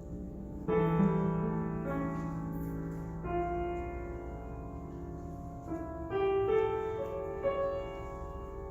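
Piano played slowly: chords struck every second or two and left to ring and fade between them.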